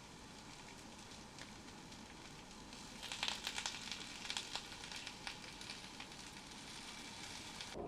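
Food sizzling and frying in a pan: a steady hiss that grows louder about three seconds in, with dense sharp crackles and pops.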